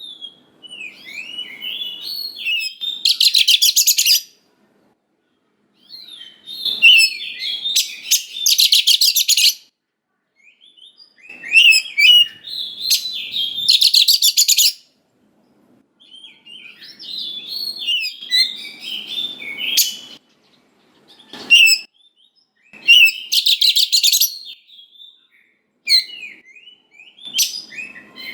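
Oriental magpie-robin (kacer) singing in repeated bouts a few seconds apart. Each bout is a run of quick, varied whistled notes that ends in a rapid, harsh, high rattle about a second long.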